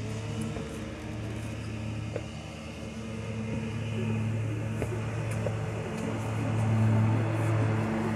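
Steady low mechanical hum with a droning pitch, growing louder a few seconds in and loudest near the end.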